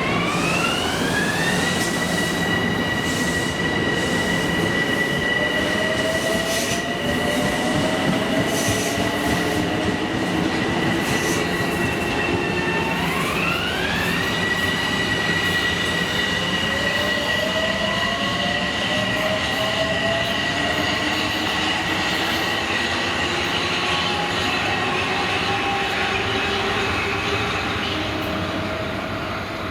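Train running on the rails with the steady rumble of its wheels. Over it an electric motor whine glides up in pitch and then holds steady, right at the start and again about 13 seconds in.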